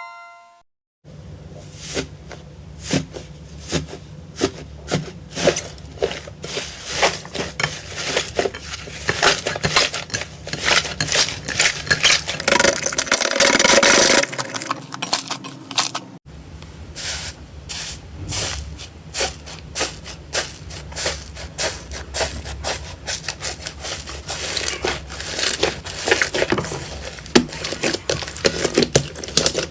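Slime being squeezed and worked by hand, giving dense crackling, popping clicks and squelchy scrapes. It breaks off suddenly about halfway through and starts again with a similar crackling.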